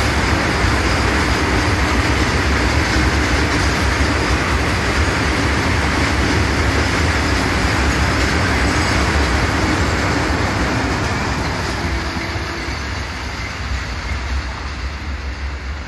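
An Indian freight train of open coal wagons rumbling past on the rails. The noise is steady, then fades over the last few seconds as the end of the train passes and moves away.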